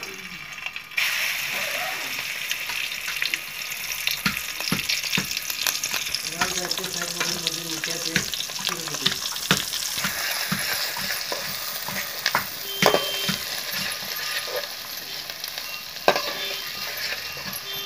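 Green masala paste dropped into hot oil in a metal pan, sizzling suddenly about a second in and then frying steadily, with a metal ladle clicking and scraping against the pan as it is stirred.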